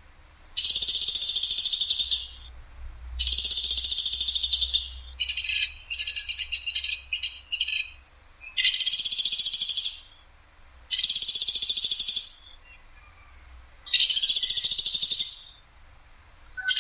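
A platuk sampit (a woodpecker, 'platuk' in Indonesian bird-keeping) calling in repeated harsh, high rattling bursts of one to two seconds each, about six in all with short pauses between them; near the middle one long burst breaks up into choppy, stuttering notes.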